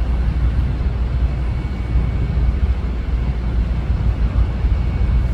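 Steady low rumble and hiss of a train standing at a station platform with its doors open.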